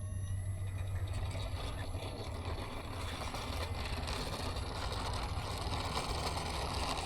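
Electric motor and propeller of a small E-flite Pulse Mini XT RC plane running as it taxis, a faint steady whine over a low rumble.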